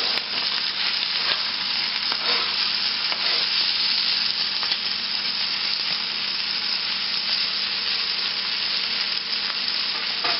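Wet baby spinach and chopped onion sizzling steadily in hot olive oil in a frying pan, the water left on the freshly washed leaves spitting in the oil.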